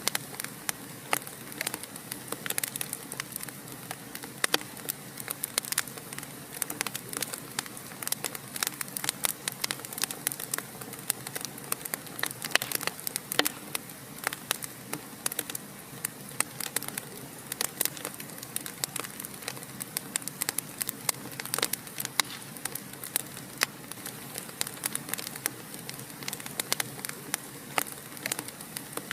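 Wood fire burning in a fireplace, crackling and popping irregularly over a steady soft hiss of flames.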